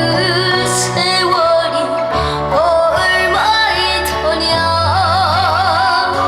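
Boy trot singer's voice singing live over a backing track, with a long note held with wide vibrato near the end.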